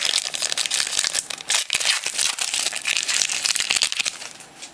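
Plastic trading-card pack wrapper being torn open and crumpled, a dense crinkling crackle that thins out near the end.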